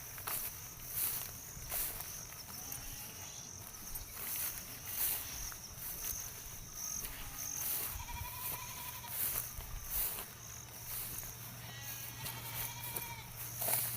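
Livestock bleating a few times, the wavering calls clearest about halfway through and near the end, over a steady high insect buzz.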